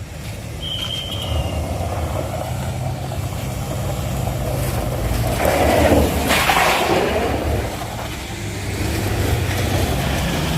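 Vehicle engine running low and steady as it works up a steep, rough incline, with a louder burst of hissing noise about halfway through and a brief high-pitched tone about a second in.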